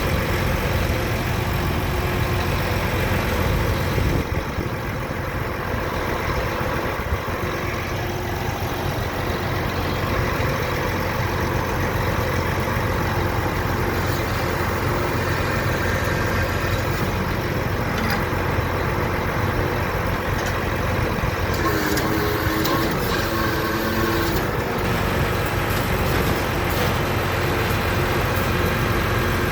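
Truck diesel engine running steadily at idle, with a short pitched whine of several tones about 22 seconds in.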